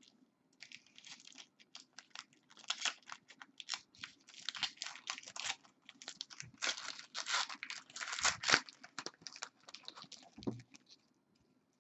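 Wrapper of a trading card pack crinkling and tearing as it is ripped open, in an irregular run of crackles.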